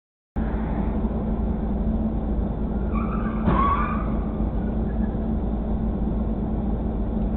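Steady road and engine noise of a moving car picked up by a dash cam. About three and a half seconds in there is a short squeal and a sharp knock.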